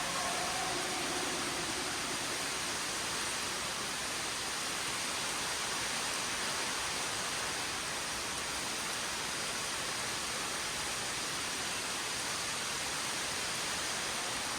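Steady, even rushing of falling water from an underground cave waterfall.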